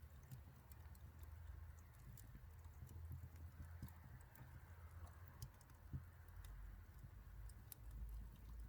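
Faint crackling of a wood bonfire: scattered, irregular sharp pops and snaps over a low steady rumble.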